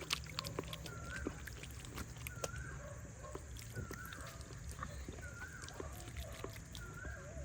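An animal giving a short, swooping call over and over, about once every second or so, with scattered light clicks and a low background rumble.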